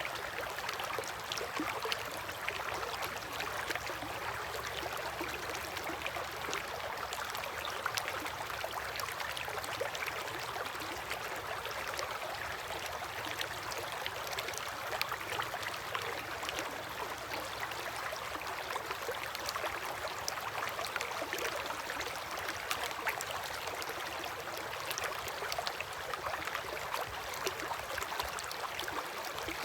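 River water flowing steadily: a continuous rush with many small splashes and gurgles.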